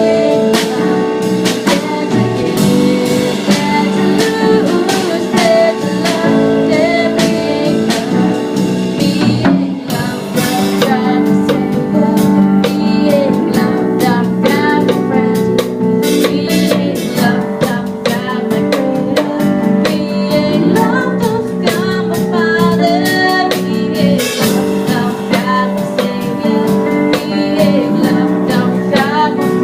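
A band playing: guitar and drum kit, with singing.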